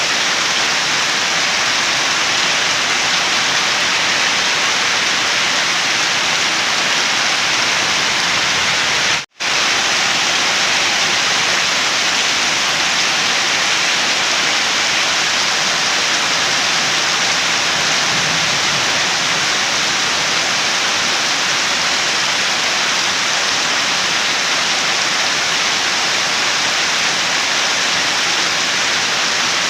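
Steady rain: a dense, even hiss of falling water that cuts out for a split second about nine seconds in.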